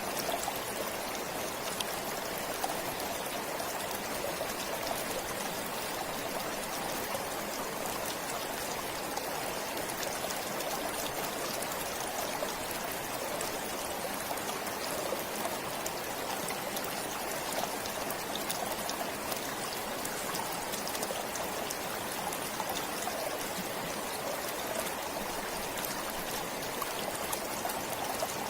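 Stream flowing steadily, water trickling with a constant fine patter of small splashes.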